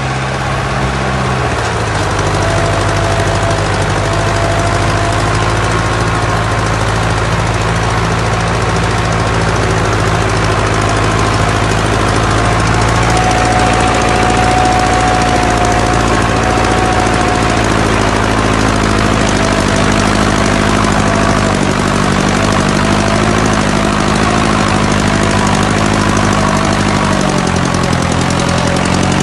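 1955 Fordson tractor engine running steadily and loudly, its speed shifting slightly a couple of times, with a faint whine that rises and falls around the middle.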